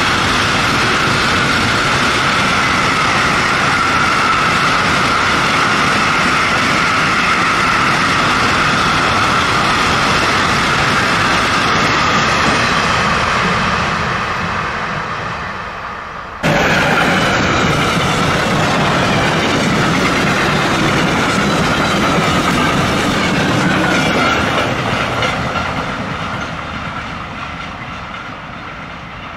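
Freight trains running past at speed: a long intermodal container train goes by with steady wheel-on-rail noise and a high steady tone, fading as its last wagons pass. After a sudden cut, a second freight train of covered wagons is heard at full level passing, then fading away into the distance.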